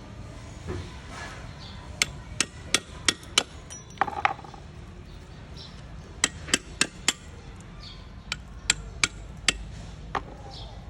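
Sharp hammer taps on metal, in runs of four or five at about three taps a second with short pauses between the runs.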